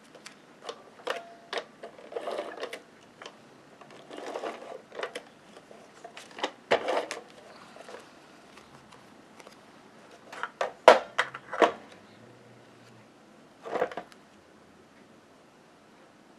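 Paper and cardstock pieces being handled and pressed down on a craft table: short rustles with scattered sharp clicks and taps, the loudest cluster about eleven seconds in.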